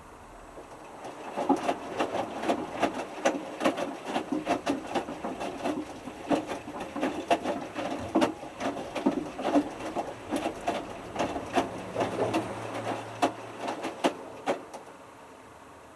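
Hotpoint Futura HF8B593 washing machine drum tumbling during the main wash, water sloshing with irregular knocks and clatter as the small load is lifted and dropped. A low motor hum is heard near the end, and the tumble stops about fifteen seconds in.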